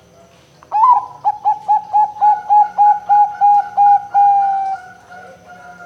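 Zebra dove (perkutut) singing. An opening note leads into a quick run of about a dozen short, evenly spaced coos, and the song ends on a longer held note that drops lower and fades.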